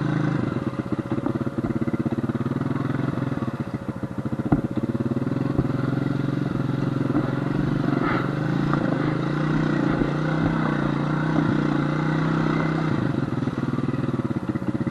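Honda FourTrax quad's engine running steadily under load as the quad crawls through a deep mud puddle, barely moving and close to getting stuck. A few small knocks sound over it.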